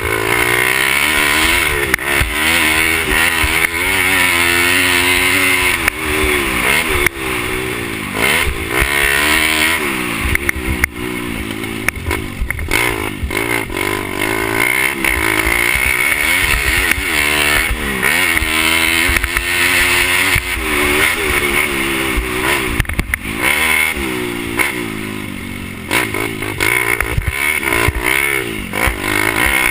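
Pit bike's small single-cylinder four-stroke engine being raced hard, the revs climbing and dropping again every second or two as the throttle is worked on and off.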